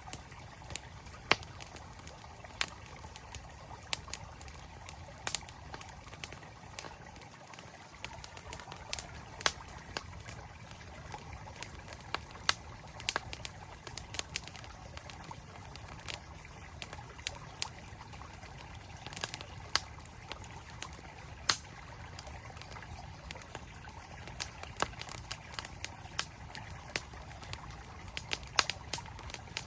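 Campfire crackling, with sharp irregular pops and snaps coming every second or so, over the steady rush of flowing mountain stream water.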